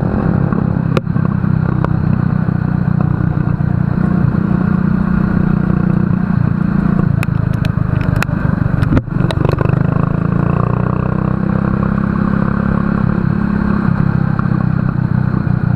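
Racing kart engine running hard through a race heat. A few sharp knocks and clatters come about halfway through.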